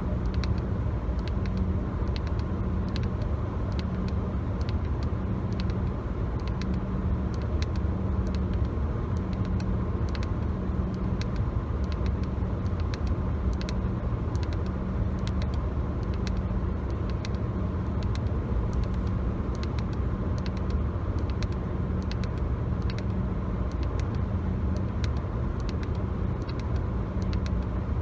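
Inside a moving car: steady low road and engine rumble, with a low hum that pulses about once a second. Over it come many light, quick taps and scratches of fingers on the car's interior trim.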